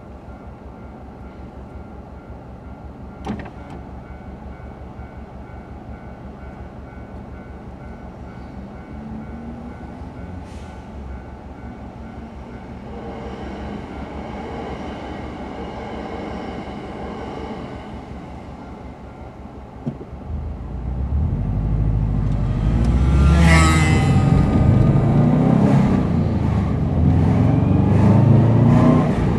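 Car engine idling steadily inside the cabin of a Subaru Impreza while it waits at a railway crossing. About 20 seconds in, after a click, the engine noise rises sharply and stays loud as the car pulls away.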